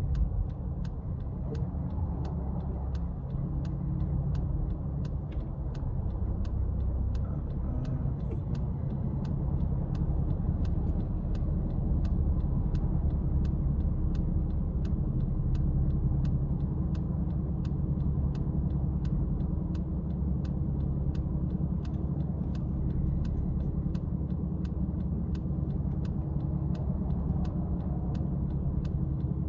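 Car interior while driving: steady low rumble of the engine and road, with a light ticking repeating about twice a second.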